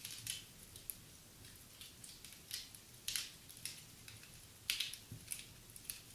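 Wood fire crackling in a fireplace: faint, irregular sharp snaps and pops over a soft hiss.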